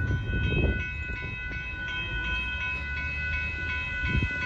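Passenger train (Amtrak Texas Eagle) rolling past with a low rumble, while a railroad crossing bell rings steadily at about three strikes a second.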